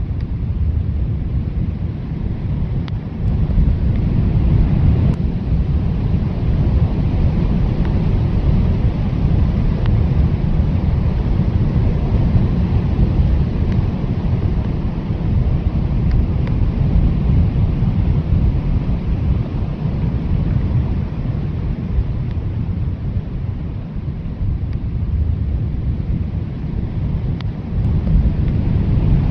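Blizzard wind blowing hard: a steady, deep rushing noise that swells louder about four seconds in and again near the end.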